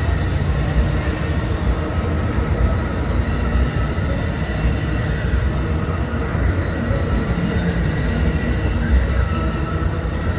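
A train rolling past on the track: a steady, loud rumble of wheels on rail, with faint thin high tones running over it.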